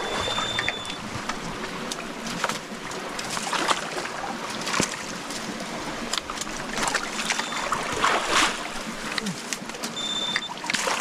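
People wading and splashing through a shallow stream, water sloshing and churning with irregular splashes. A short high electronic beep sounds right at the start and again near the end.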